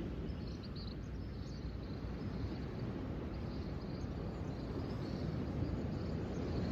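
Nature ambience: a steady low rushing noise that swells slightly, with faint high chirps scattered through it.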